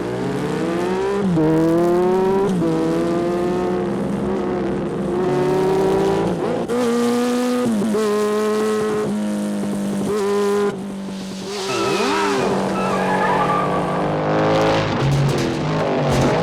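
Motorcycle engines revving hard under acceleration, their pitch climbing and then dropping at each gear change, again and again.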